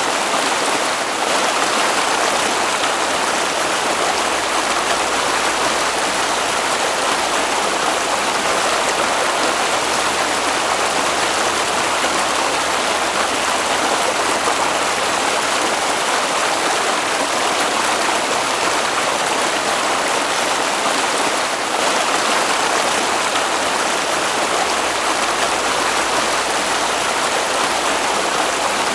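Water of a stream flowing, a steady, even noise without a break.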